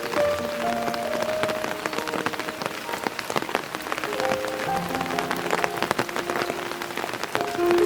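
Steady spring rain: many drops ticking densely on surfaces. Soft music of held notes plays over it.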